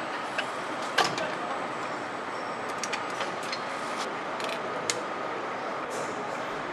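Factory assembly-floor noise: a steady hiss of machinery with scattered sharp metallic clicks and clanks from tools and parts, the loudest about a second in.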